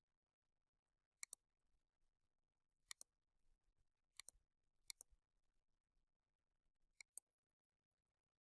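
Faint, sharp clicks, mostly in quick pairs, five times over several seconds.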